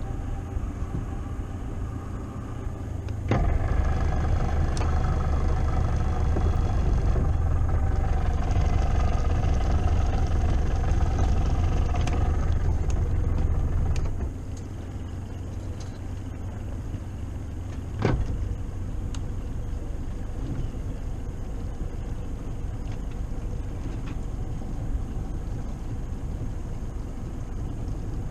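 Boat motor running as the boat is moved a short way, picking up to a louder, higher run with a whine from about three seconds in, then easing back about fourteen seconds in. Two sharp knocks, one as it picks up and one about eighteen seconds in.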